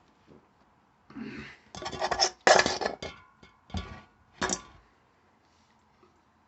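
Several short bursts of rustling and clattering handling noise, from the sandwich and its wrapper being handled near the microphone, the loudest about two and a half seconds in.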